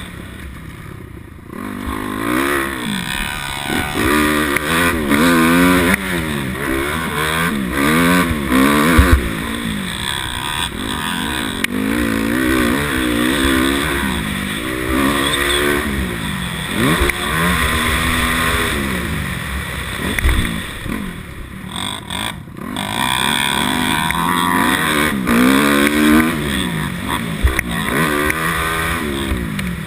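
250cc motocross bike engine ridden hard, its pitch rising under throttle and dropping back again and again as the rider works through the gears and off the throttle.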